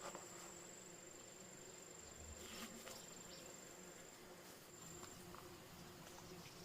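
An insect's steady high-pitched trill. It stops about four seconds in, sounds again briefly about a second later, then falls silent. A few faint clicks are heard.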